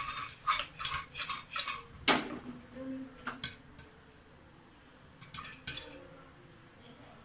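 Metal pressure cooker with popcorn inside being shaken, giving a quick run of rattling knocks, then set down with one loud clang about two seconds in. A few scattered sharp clicks follow.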